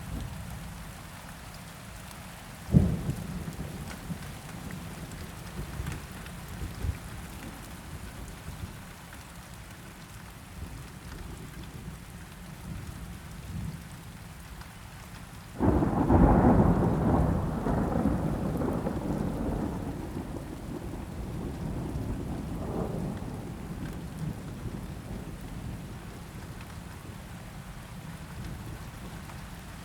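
Steady rain falling, with a single sharp crack about three seconds in. Near the middle a loud clap of thunder breaks in suddenly and rumbles on, fading slowly over several seconds.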